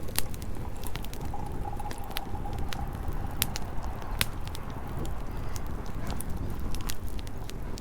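Wood fire crackling in a truck brake drum fire pit: irregular sharp pops and snaps over a steady low rumble.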